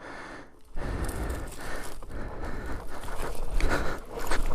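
Crunching and scraping of loose rock under an electric dirt bike's tyres climbing a rocky hill. There is no engine note, only rough, uneven scraping that grows louder about a second in, with sharper knocks near the end.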